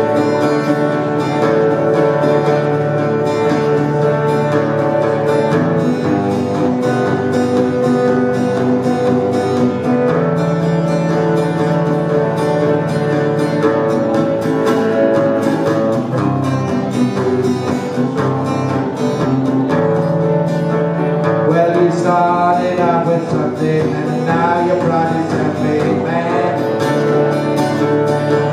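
Live acoustic guitar music: an instrumental break in the song, with strummed chords and sustained melody notes and no singing.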